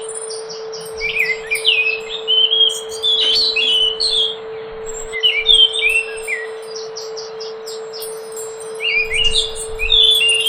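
Anis macan (scaly thrush) singing: four phrases of quick, varied, sweeping notes with rapid high notes above, a second or two apart, over a steady low hum.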